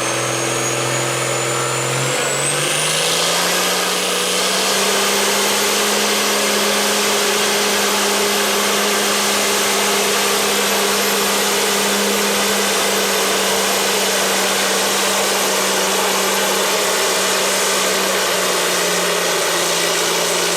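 Hot stock pulling tractor's engine rising in revs over about two seconds, then held at steady high revs while pulling the sled.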